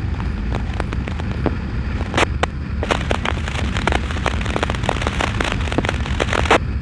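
Motorcycle on the move: a steady low engine and wind rumble, with irregular crackling clicks scattered throughout.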